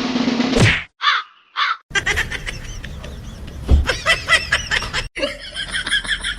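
Bird calls: two short calls, then a quick run of repeated calls. About five seconds in, the sound breaks off abruptly and another run of high calls begins. Before them, a noisy burst carries over and stops before the first second is out.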